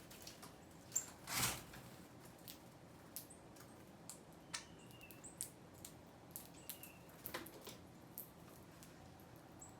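Small birds feeding: scattered sharp pecks and taps, a few brief high chirps, and a short flutter of wings about a second and a half in.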